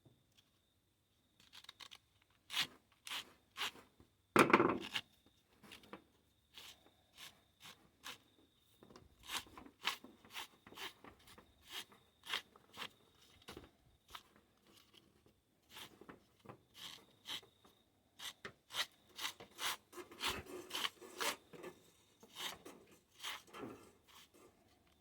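Hands working a lawn mower's recoil starter and its new pull cord: irregular small clicks, taps and rubbing of the parts and rope, with a louder scraping rub about four and a half seconds in.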